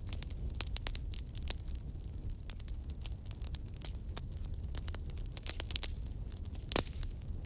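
Wood campfire burning: irregular sharp crackles and pops over a low steady rumble, with one louder pop near the end.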